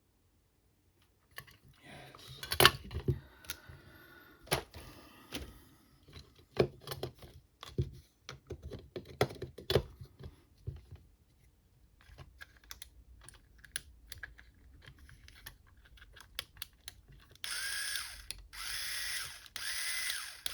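Small plastic parts of a cordless screwdriver clicking and knocking as they are handled and fitted together. Near the end the screwdriver's small electric motor runs three times in quick succession, about a second each, spinning up and winding down.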